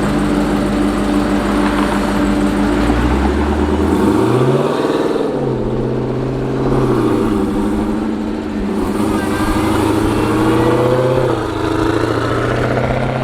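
Car engine running steadily, then revved about three seconds in, its pitch rising and holding higher with a couple more swells of throttle.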